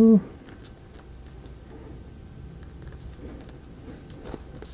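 A short pitched hum, rising then falling, at the very start, then faint scattered clicks and rustles of small wooden parts being handled and pressed into place.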